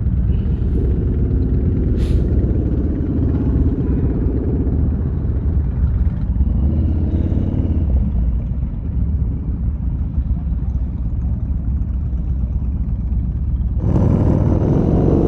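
Yamaha Bolt motorcycle's air-cooled V-twin engine running under way, its pitch rising and falling over the first few seconds, over a steady low wind rumble on the microphone.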